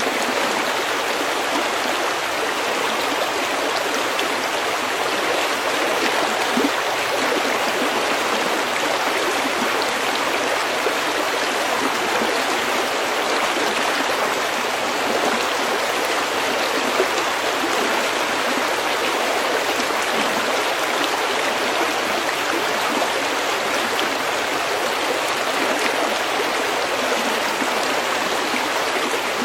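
A stream flowing steadily over stones, an even rush of water.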